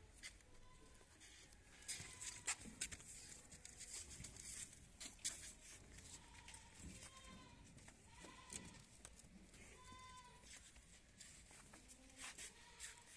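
Goats bleating faintly now and then, with short calls scattered through and a clearer one about ten seconds in, over scattered clicks and rustling.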